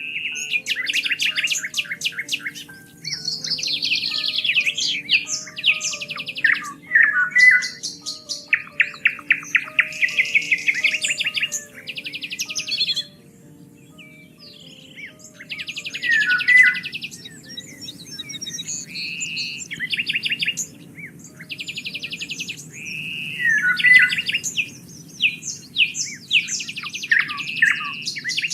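Songbirds singing together: rapid trills and repeated chirps, with a brief lull about halfway through. Soft background music with slow, held low notes runs underneath.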